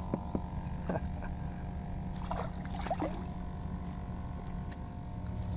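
Handling sounds of a small snook being unhooked by hand: a few short clicks and brief scrapes over a steady low hum.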